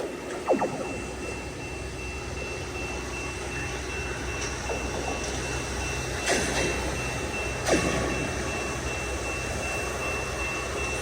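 Rail maintenance-of-way machines' diesel engines running as they drag a length of rail along the track, with sharp metallic clanks about half a second in, just after six seconds and near eight seconds. A steady high electronic tone sounds throughout.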